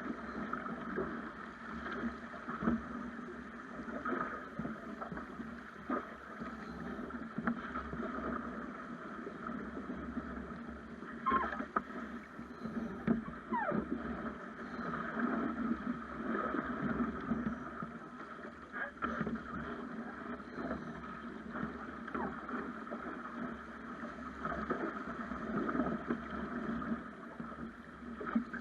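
Water rushing and splashing along the hull of a Snipe sailing dinghy under way, steady throughout, with scattered short knocks.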